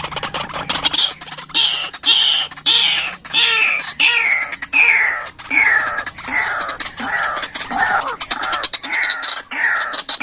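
White-breasted waterhen calling its repeated 'ruak-ruak' call, the lure sound used to attract the bird: a long series of falling notes, about one and a half a second.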